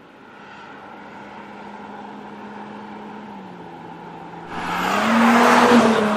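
Audi S5 Coupé's turbocharged 3.0 TFSI V6 running steadily, then about four and a half seconds in a loud rush of engine and tyre noise swells up, peaks and begins to fade as the car passes close by.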